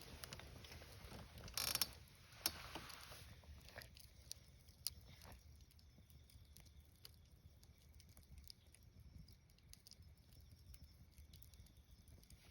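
Faint wood fire crackling: scattered small pops and snaps, with a louder burst of crackle and a sharp snap about two seconds in.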